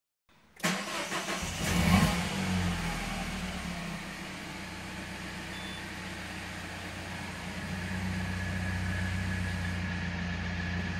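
Peugeot RCZ's 1.6-litre THP turbocharged four-cylinder starting up, heard from inside the cabin. It catches suddenly, revs up briefly about two seconds in, then settles into a steady idle. This is the first start after the high-pressure fuel pump was replaced.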